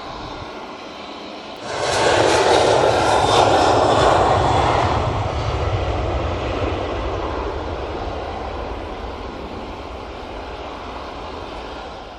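KC-130's four turboprop engines: a steady drone that swells suddenly about two seconds in as the aircraft passes close, then slowly fades away.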